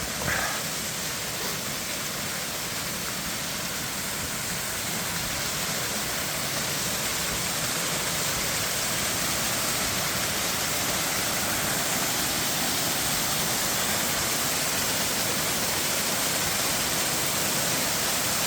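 Waterfall rushing steadily, growing gradually louder.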